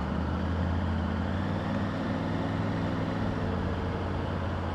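Motorbike engine running steadily while riding, with wind and road noise, heard through a helmet-mounted microphone with no noise cancellation.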